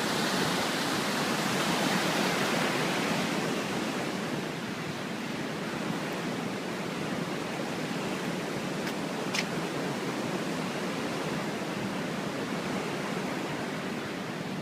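Steady rushing of a flood-swollen mountain creek, a little louder in the first few seconds, with one short click about nine seconds in.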